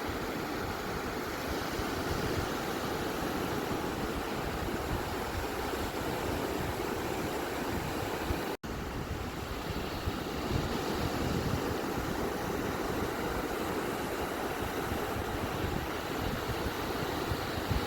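Ocean surf on a beach: a continuous, steady wash of wave noise, with a momentary dropout to silence about eight and a half seconds in.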